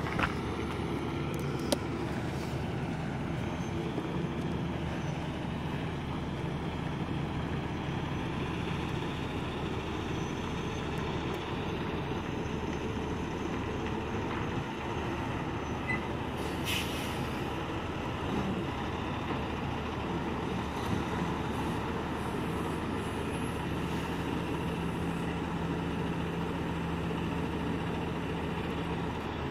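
A vehicle engine idling with a steady, even hum, and one brief high hiss about seventeen seconds in.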